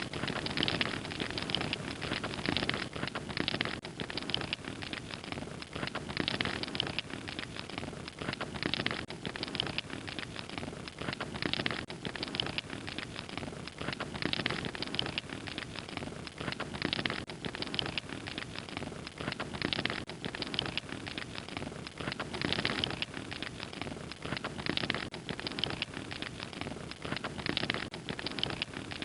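Wood fire crackling: a steady hiss thick with irregular small crackles and pops.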